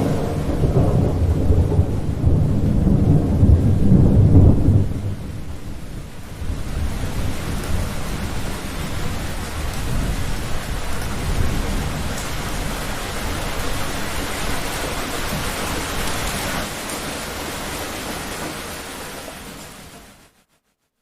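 A loud rolling thunderclap for the first four to five seconds over heavy rain, then steady heavy rain that fades out near the end.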